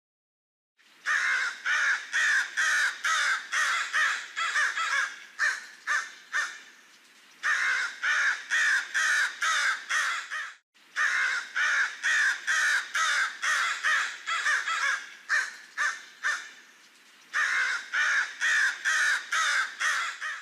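Crow cawing: quick runs of caws, about two or three a second, in four bouts with short pauses between them.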